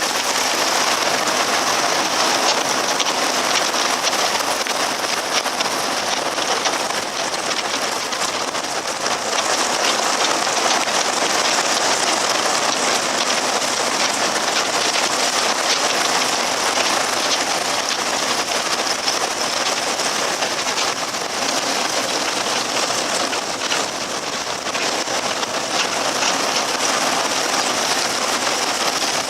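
Thin lake ice breaking up under a fishing boat's hull, a steady dense crackling and hissing of many small ice fragments, like heavy rain on a surface.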